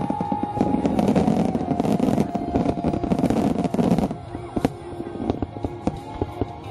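Aerial fireworks bursting in a dense barrage, booms overlapping with crackling, easing about four seconds in to scattered pops and crackles.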